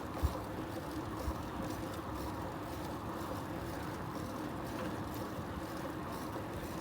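Steady rolling noise of a bicycle being ridden, with a short low thump just after the start.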